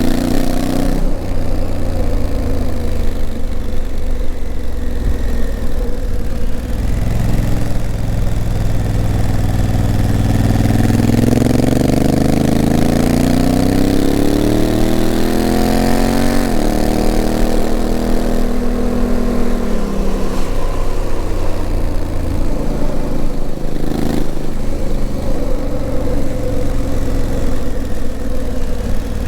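Honda CRF1000L Africa Twin's parallel-twin engine pulling the bike along, its pitch climbing steadily for several seconds midway and then dropping suddenly, with another drop a few seconds later.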